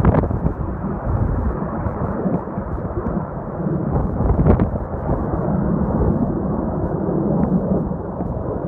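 Strong wind buffeting the microphone: a loud, continuous low rumbling roar with a few sharper gusts.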